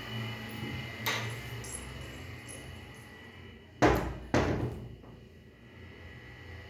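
Two sharp knocks about half a second apart, after a fainter click, over a steady low hum.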